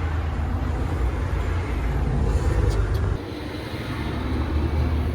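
Cars passing on a busy road: a steady, low traffic rumble that drops about three seconds in and swells again.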